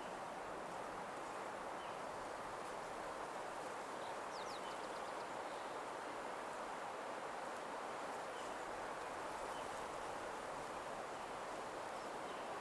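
Nature ambience of small birds chirping faintly and sparsely over a steady, even background hiss, with a quick little trill of rapid notes about four seconds in.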